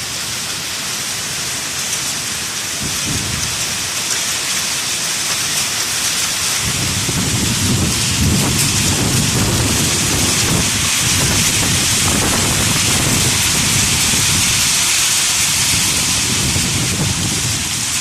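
Heavy storm downpour beating down steadily. A low, uneven rumble of gusting storm joins about a third of the way in and carries on underneath.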